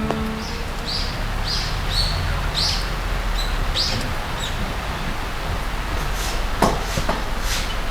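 A small bird chirping, about six short high chirps roughly half a second apart, over a steady outdoor hiss; a few sharp clicks follow near the end.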